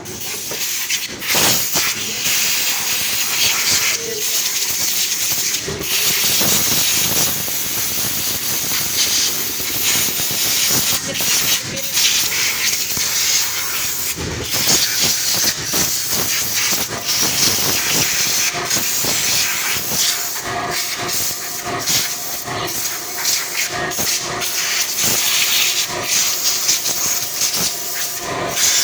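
Loud, steady hissing of a high-pressure jet, broken off briefly a number of times as the trigger is let go and pressed again.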